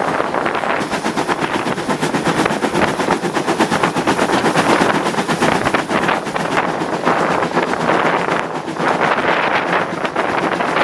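Train running with a rapid, even clatter of sharp strokes, with wind buffeting the microphone.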